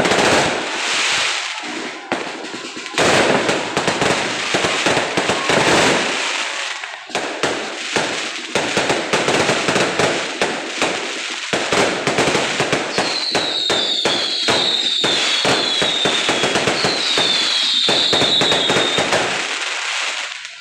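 A 600-shot fireworks cake firing rapid, overlapping bangs and crackle, with a run of short falling whistles about two-thirds of the way through.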